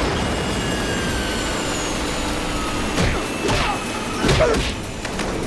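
Helicopter running with a steady dense roar and a faint falling whine, with a few crashing impacts about three and four seconds in.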